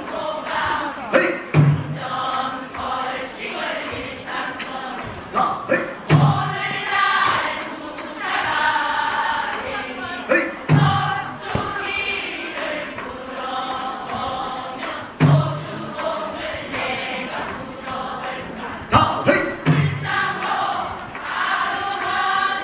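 A group of voices singing a Korean folk song (minyo) together, with a low drum stroke about every four and a half seconds.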